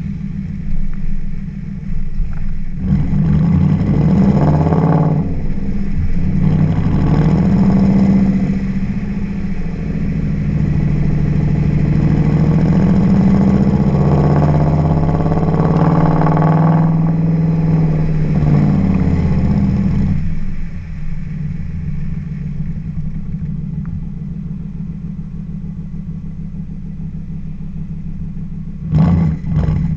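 Audi B7 S4's 4.2-litre V8 through a custom cat-back Akrapovic exhaust. It runs steadily, then its pitch rises and falls through several revs for about fifteen seconds, settles back to a steady note, and gives a quick sharp rev near the end.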